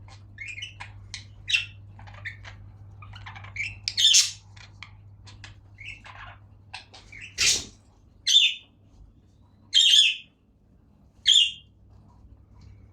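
A caged flock of pet budgerigars with a cockatiel, chirping and chattering in short rapid calls, then four loud squawks spaced about a second or so apart in the second half.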